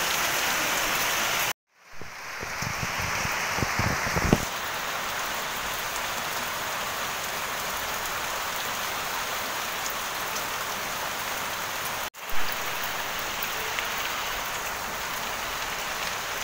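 Steady heavy rain falling on foliage and corrugated metal roofs, with water dripping from the eaves. The sound cuts out abruptly and comes back twice, about a second and a half in and about twelve seconds in, and a few low thumps sound between two and four seconds in.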